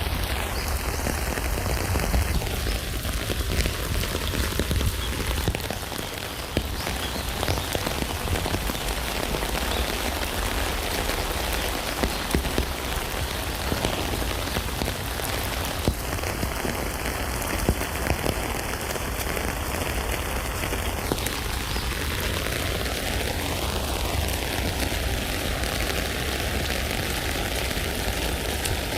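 Steady rain falling on a tent: a dense, even patter of countless drops, with a constant low rumble underneath.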